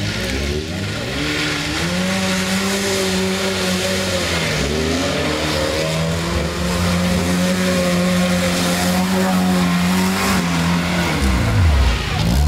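Lada Niva's engine revving hard under load, its pitch rising and falling repeatedly, then dipping sharply near the end and climbing again.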